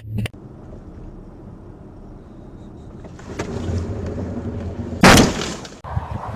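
Car driving on a winter road: steady road and engine noise that grows louder about three seconds in, then a loud, sudden burst of noise about five seconds in that lasts under a second.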